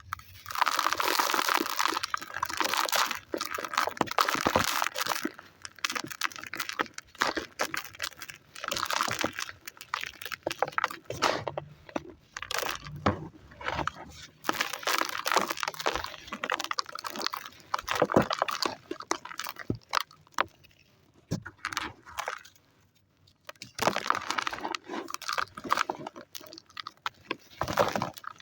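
Dry white sand crumbling, a gritty crunching and crackling in irregular bursts, with a short lull a little past the middle.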